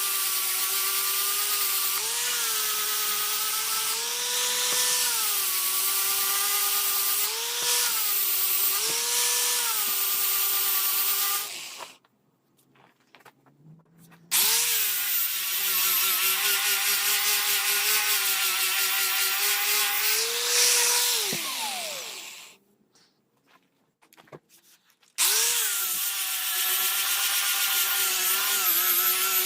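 Electric power tool running against a workpiece in three runs, with short pauses between them. Its motor whine dips and rises again and again as it is pressed on and eased off, over a harsh hiss. The second run ends with the motor spinning down.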